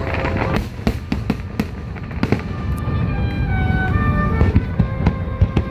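Fireworks bursting in quick succession: sharp bangs and crackles over a continuous low rumble. Music with held notes plays underneath from about halfway through.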